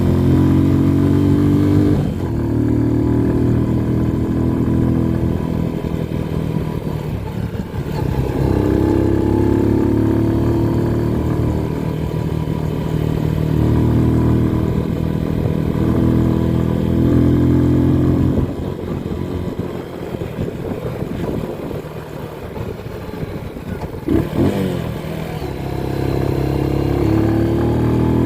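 Motorcycle engine running on the move. Its pitch climbs and falls again and again as it accelerates and eases off. For several seconds past the middle it runs quieter and lower, then picks up again near the end.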